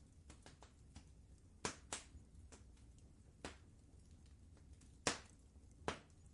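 Wood fire crackling in a fireplace: irregular sharp pops and snaps, the loudest about five seconds in, over a faint low steady rumble.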